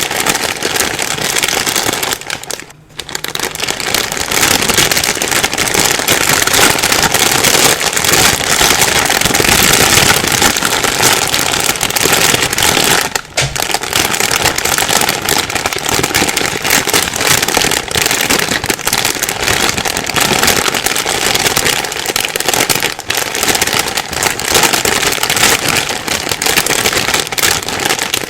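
Plastic bag being rustled and crumpled without pause, a dense crackling that drops out briefly about three seconds in and again around thirteen seconds.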